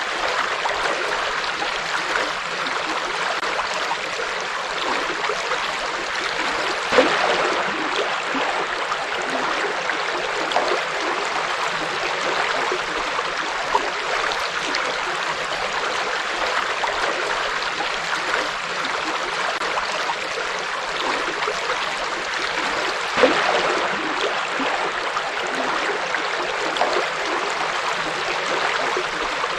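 A river flowing over stones: a steady rushing and babbling of water, with a couple of brief louder splashes, about seven seconds in and again near twenty-three seconds.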